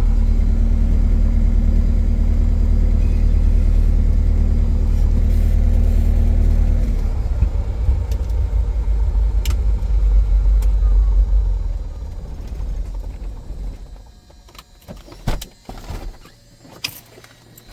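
Cessna 177 Cardinal's piston engine running at low power with a steady drone, then dying away over about two seconds as it is shut down, followed by a few clicks and knocks.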